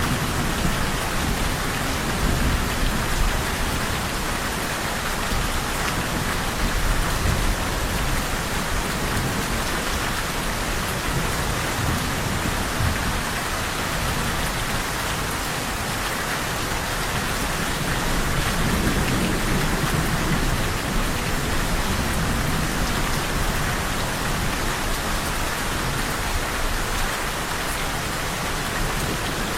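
Steady rain falling on a surface, with low rolling rumbles of thunder that swell now and then, strongest about two-thirds of the way through.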